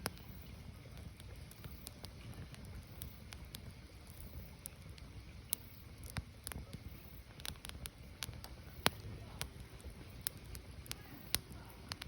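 Firewood burning: irregular crackles and sharp pops over a low, steady rumble, with the loudest pop about nine seconds in.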